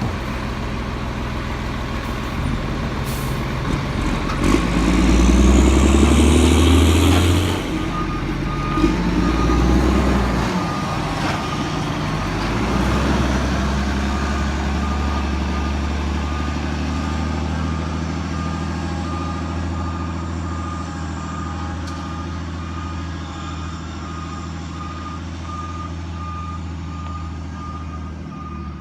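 Lodal Evo garbage truck's engine revving hard for a few seconds with a hiss, then running steadily while its reversing alarm beeps repeatedly as it backs up.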